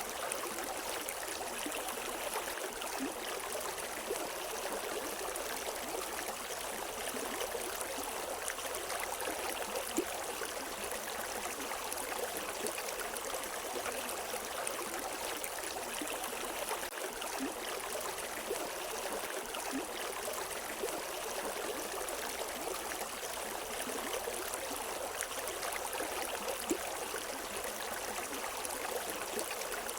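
River water flowing and splashing over rocks in a steady rush, with no birds.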